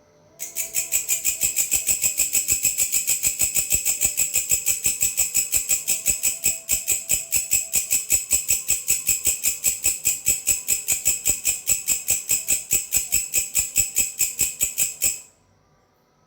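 Grasshopper (belalang) song: a fast, even train of high-pitched chirps at about five a second, starting abruptly near the start and cutting off suddenly near the end.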